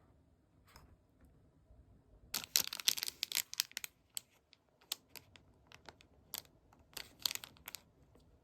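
Close handling noise: a dense run of sharp, crackly clicks and crinkles starting about two seconds in and lasting over a second, then scattered single clicks.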